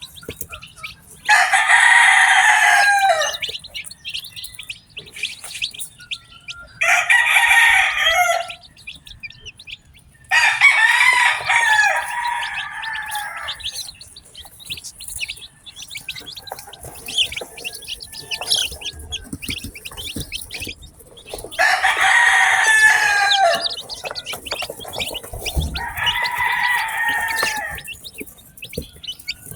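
A rooster crowing five times, each crow about two seconds long, over the continuous high peeping of newly hatched chicks.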